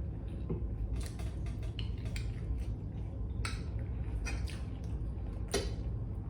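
Close-up eating sounds of a person eating fish and rice by hand: wet chewing and mouth smacks with scattered sharp clicks, the loudest about three and a half and five and a half seconds in, over a steady low hum.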